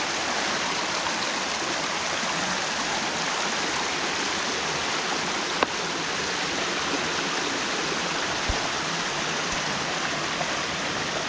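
Mountain stream running full after rain, a steady rush of water. A single short click sounds about halfway through.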